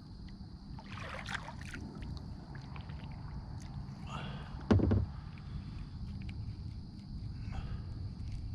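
Kayak on the water: a steady low rumble of water and wind, a brief rushing sound about a second in, and a single dull knock against the hull just before five seconds in, the loudest sound here.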